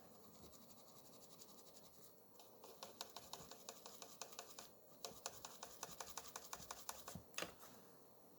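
A quick run of small, light clicks, several a second, starting a couple of seconds in and stopping near the end, with one louder click just before they stop.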